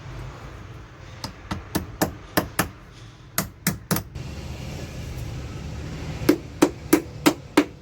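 Hammer tapping a battery terminal clamp onto its post: about fourteen sharp knocks in three quick runs of roughly three blows a second, the last run with a slight ring.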